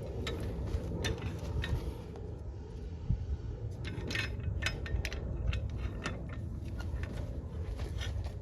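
Light metallic clinks and knocks, scattered and uneven, over a steady low rumble.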